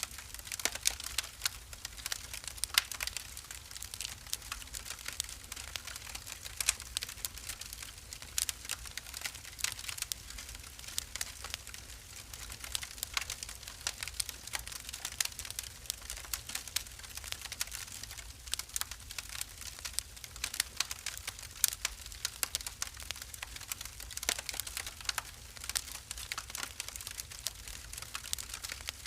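Wood fire in a fireplace crackling: many small, irregular pops and snaps over a soft low rumble of the flames.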